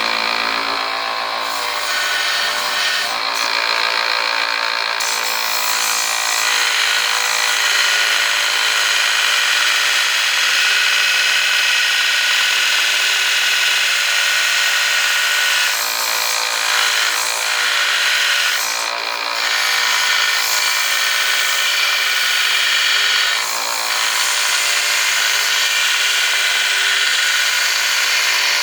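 Small electric grinder running steadily as it grinds a point onto a forged high-carbon steel knife blade, its tone changing briefly a few times as the blade is worked against it.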